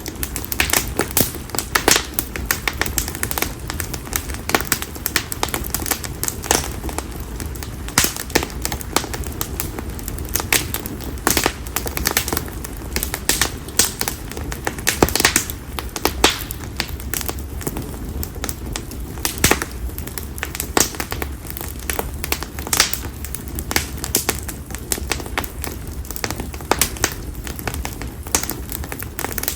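Split konara oak firewood crackling in a bonfire: irregular sharp pops and snaps, a few loud ones, over a low steady rumble of the fire.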